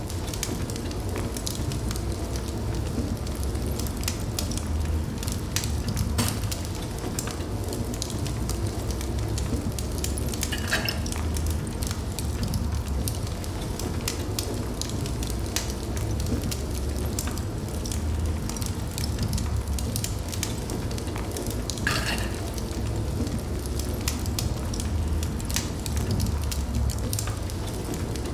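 Wood fire burning in a fireplace: a steady low rumble of flames with frequent sharp crackles and pops, and two brief louder flares of hissing about ten and twenty-two seconds in.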